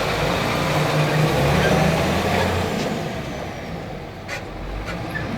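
Truck engine running and revving, growing louder over the first two to three seconds and then easing off.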